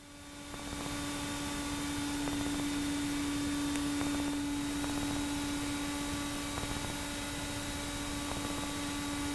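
Steady in-flight drone of a Pipistrel Virus SW light sport aircraft's engine and propeller as heard through the cockpit audio: a constant hum tone over a hiss, fading up in about the first second and then holding steady.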